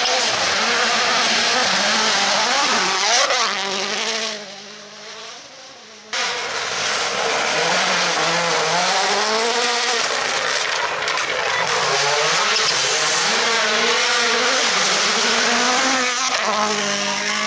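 Rally cars' turbocharged four-cylinder engines revving hard, the pitch climbing and dropping with each gear change as a car passes. About four seconds in the sound fades away, then cuts abruptly to another car revving up and down through repeated gear shifts.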